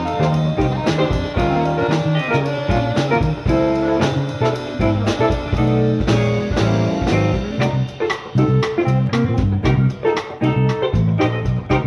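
Jazz-funk band playing live: guitar, bass and drum kit, with the drum strokes coming thicker and sharper toward the end.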